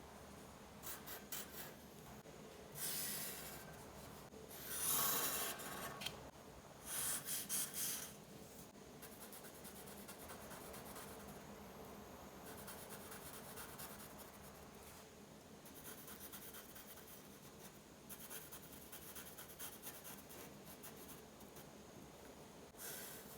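A pen drawing on paper: scratchy strokes, a few louder sweeps in the first third including a run of quick short strokes, then steadier, softer scribbling.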